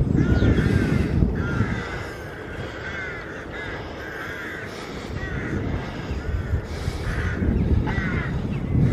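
Birds calling repeatedly in short arched calls, several close together in places, over a steady low rumble; the sound cuts off suddenly at the end.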